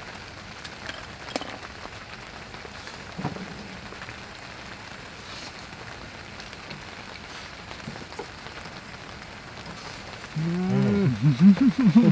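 Rain pattering steadily on the tent, with a few small knocks. Near the end a loud pitched sound comes in, its pitch wavering up and down.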